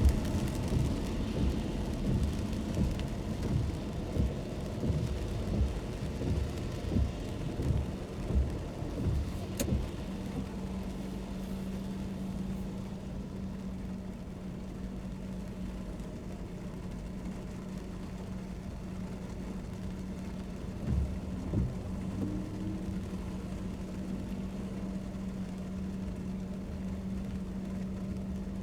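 Car cabin noise while driving in the rain: tyre and road hiss with rain, and irregular low thumps for the first ten seconds or so. After that it turns quieter, with a steady low engine hum and a couple more thumps about twenty seconds in.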